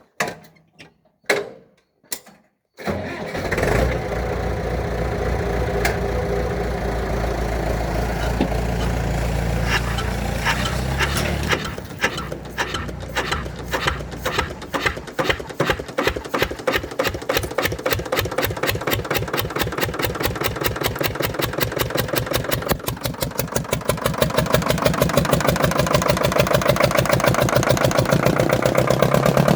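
Lister HA2 two-cylinder air-cooled diesel engine on a cold start: a few sharp clicks, then the engine is turned over steadily for about eight seconds. It fires about twelve seconds in and runs with distinct, evenly spaced beats that quicken, growing louder near the end.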